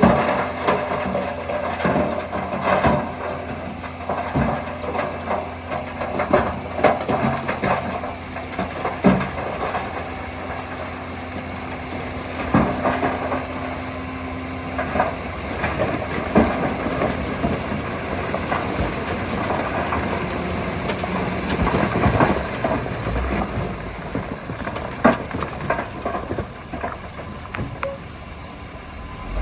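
Heavy earthmoving machine's diesel engine running steadily, with irregular metallic clanks and knocks throughout.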